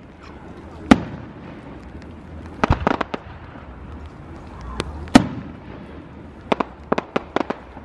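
Aerial firework shells bursting overhead. There are single sharp bangs about a second in and, loudest, about five seconds in, with quicker clusters of smaller pops around three seconds and near the end.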